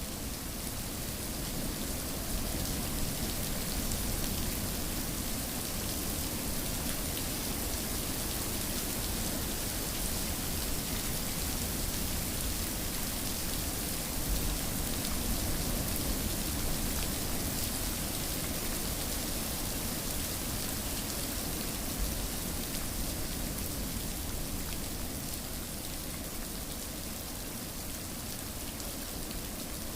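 Steady rain falling and pattering on surfaces, an even rushing hiss without a break.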